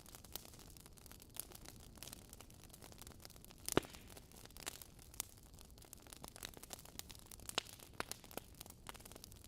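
Wood fire in a fireplace crackling: burning logs giving off irregular sharp snaps and pops over a low hiss, with one louder pop a little under four seconds in.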